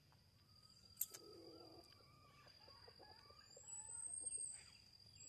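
Faint bird calls: a short call about a second in and a high whistle rising near the end, over a steady high-pitched tone.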